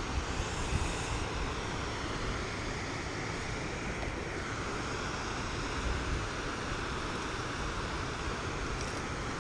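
Steady hiss of rain falling on the river, with a low wind rumble on the microphone.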